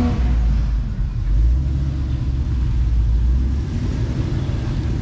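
Off-road rock crawler's engine running steadily at low revs: a deep, even rumble.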